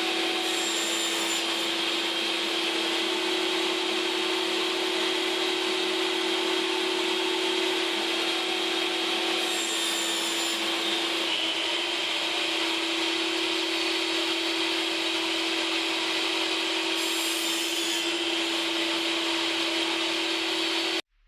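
Power saw running steadily for cross cuts in 9 mm plywood, with one constant motor tone. Brief higher-pitched hissing comes in about a second in, again about ten seconds in, and near the end. The sound cuts off suddenly.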